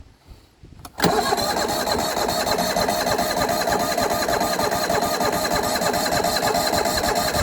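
Yamaha YT6800 garden tractor's engine being cranked by its starter, starting about a second in and turning over with a steady rapid rhythm without catching. This is a failed start, with fuel possibly not yet reaching the engine.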